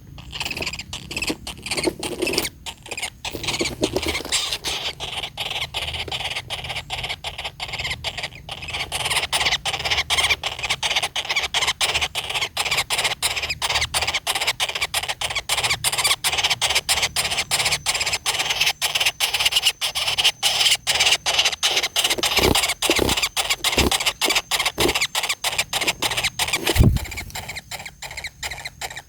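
Woodpecker nestlings begging from inside a tree-hole nest: a continuous high squealing chorus of rapid, repeated calls, a few a second. Several low thumps come in the last few seconds.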